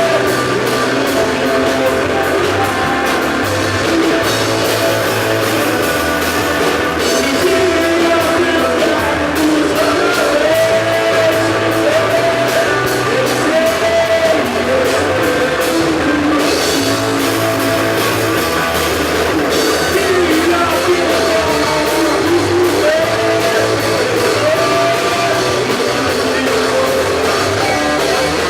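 Rock band playing live and loud: electric guitar and drum kit, over a bass line that changes note every couple of seconds, with a melodic line weaving above.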